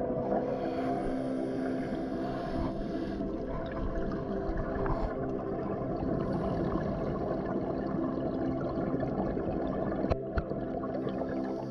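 Underwater sound on a scuba dive: a steady drone of a boat's motor carried through the water, with bubbling. A couple of sharp clicks about ten seconds in.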